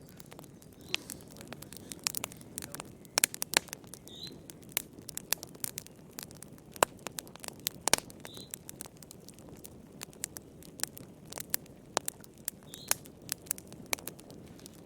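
Wood fire crackling in a fireplace: irregular sharp snaps and pops over a low, steady hiss, with a few faint, brief high squeaks among them.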